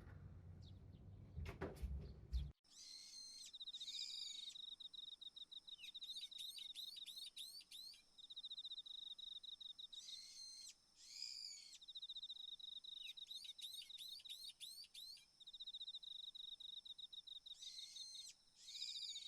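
A few faint knocks, then an abrupt switch to birdsong: a high, steady trill broken by evenly repeating groups of chirps.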